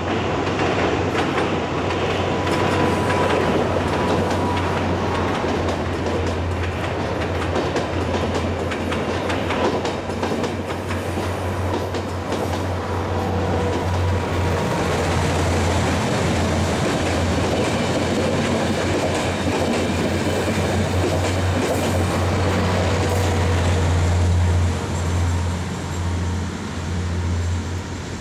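Diesel passenger train running past with a steady low rumble, its wheels clacking over the rail joints, the sound dropping away near the end.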